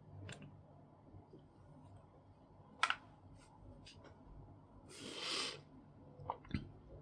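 A few sparse clicks and light knocks of small plastic parts being handled, with one short scraping rustle past the middle, as cogs are taken off a paper laminator's gear train.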